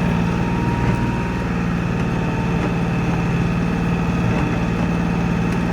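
Kioti NX4510 compact tractor's diesel engine running steadily while plowing snow, a constant low hum.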